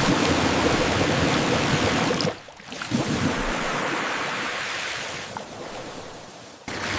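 Water hose spraying in a steady hiss, in two stretches with a short break about two and a half seconds in, tailing off a little before cutting off near the end: a truck being rinsed down.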